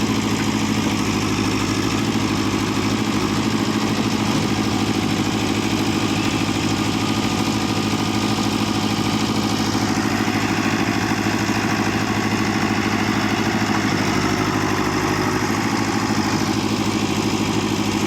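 Tractor diesel engine running steadily, with its tone changing about ten seconds in.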